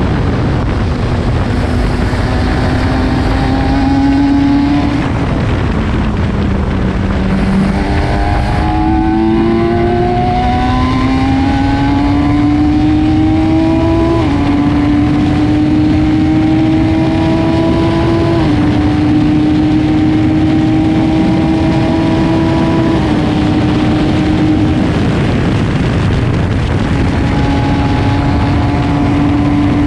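Supercar engine driven hard on a race circuit, heard through a helmet camera. Its note climbs in pitch, drops in steps at upshifts a little under halfway through and again about two-thirds through, then holds fairly steady near the end, over a constant rush of wind and road noise.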